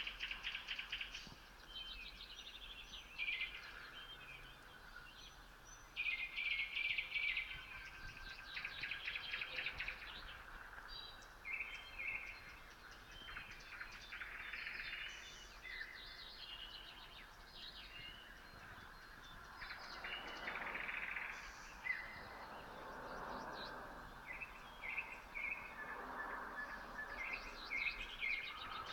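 Nightingales singing before dawn: loud phrases of rapid clicks and rattles alternating with pure whistled notes, one phrase following another, with other birds singing more faintly in the background.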